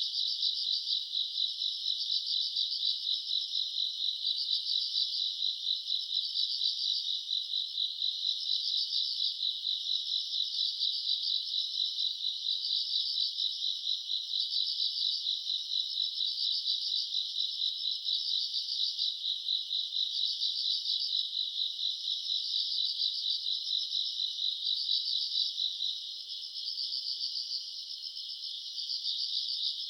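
Chorus of grass insects such as crickets chirping in a steady, rapid pulsing rhythm, high-pitched and continuous. It eases slightly near the end.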